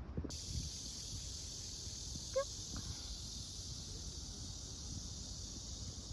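A steady, high insect chorus outdoors that sets in just after the start and holds, over a low rumble. About two seconds in there is one short pitched call.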